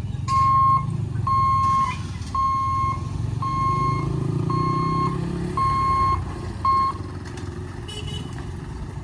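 An electronic warning beeper sounding seven evenly spaced high beeps, about one a second, then stopping, over a steady low rumble of vehicle engines.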